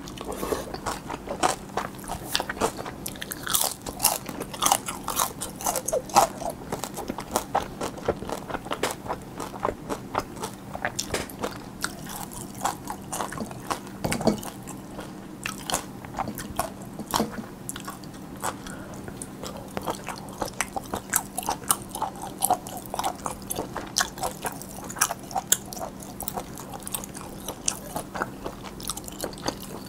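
Close-miked chewing and biting of a mouthful of spicy cold bibim noodles with young-radish kimchi and cucumber, with many sharp crunches throughout.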